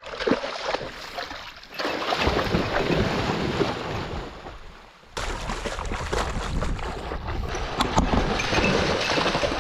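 Wind rushing over the microphone with scattered rustles and knocks, the noise dipping and jumping abruptly about five seconds in.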